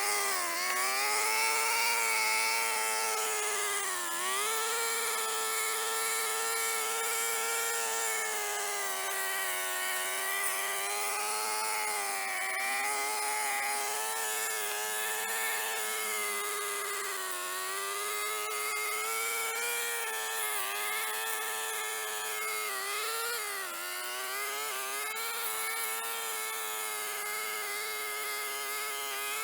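Brush cutter running at high speed. Its whine sags briefly in pitch several times, about half a second, four, seventeen and twenty-three seconds in, as the blade bites into grass.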